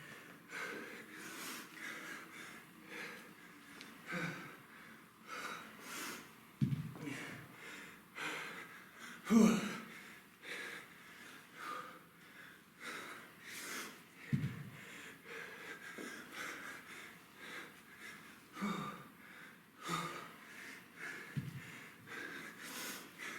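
A man breathing hard from exertion, with a sharp exhalation about every second and a few short voiced grunts. The loudest grunt comes about nine seconds in.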